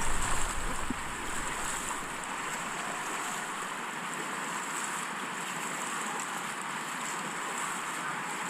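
Steady rush of white water as a raft runs a river rapid.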